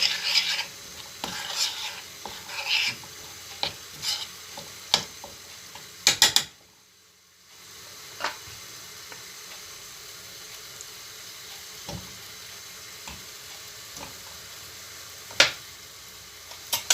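A utensil stirring flour into melted butter in a pan on the heat, cooking a roux for béchamel: quick scraping strokes against the pan in the first few seconds and a light sizzle. A few sharp clicks of utensil on pan come about six seconds in, then the sound briefly drops out and settles into a steady low sizzle with occasional single taps.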